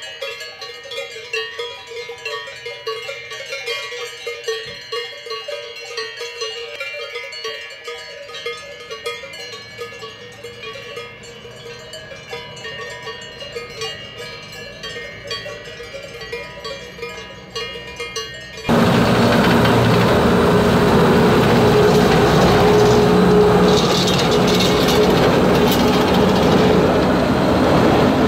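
Cowbells jangling irregularly with many overlapping ringing tones. After about 19 seconds this cuts abruptly to a much louder, steady mechanical running noise with a hum: a Schynige Platte Bahn He 2/2 electric rack locomotive on the move.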